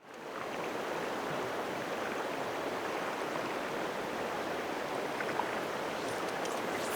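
Steady rush of a flowing river, fading in at the start.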